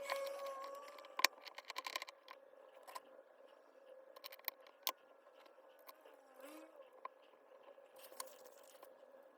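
Small hammer drill parts being handled during disassembly: a scrape with quick clicks in the first two seconds, then scattered light ticks over a faint steady hum.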